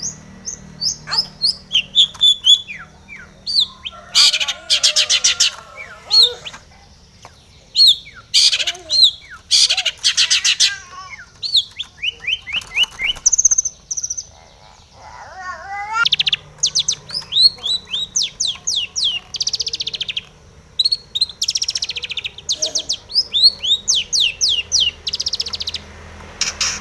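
Long-tailed shrike singing a loud, varied song of rapid trills, fast chattering runs and sharp repeated notes, with a short lull about halfway through.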